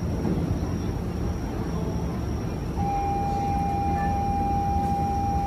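Keio 8000 series electric train standing at the platform with a low steady rumble. About three seconds in, a steady electronic departure tone starts and holds, the signal that the doors are about to close.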